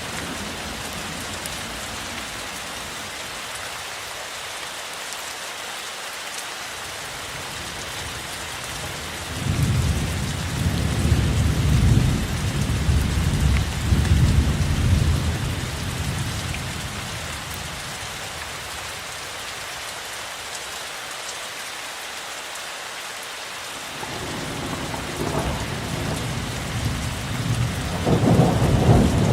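Steady rainfall with rolling thunder: a long low rumble swells about a third of the way in and fades over several seconds, and a second one builds near the end.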